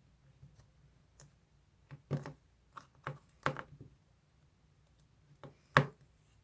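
A handful of sharp, irregular taps and clicks, the loudest one near the end.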